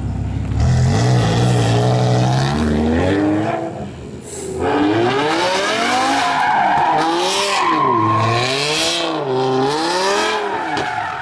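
C8 Corvette Z06's V8 revving hard with its tyres squealing as the car is spun with traction control off. The engine note climbs and holds, drops off briefly near the four-second mark, then swings up and down in pitch again and again.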